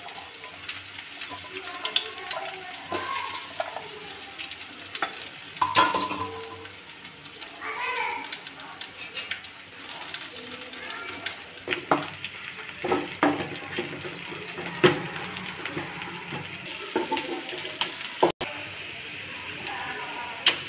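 Sliced onions sizzling in hot oil in an aluminium kadai: a steady hiss with scattered crackles and clicks. The sound drops out for an instant near the end.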